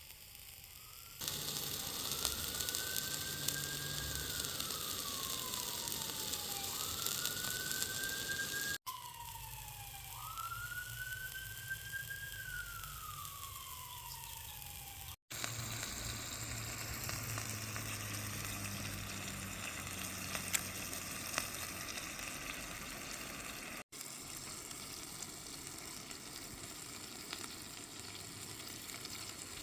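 Burgers sizzling as they fry in their own fat in a frying pan. Over the first half a distant emergency-vehicle siren wails, rising quickly and falling slowly every few seconds.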